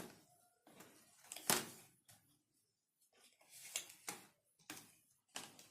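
Irregular clicks, taps and rustles of hands handling laptop parts while the keyboard and its ribbon cable are being connected, with the loudest knock about a second and a half in.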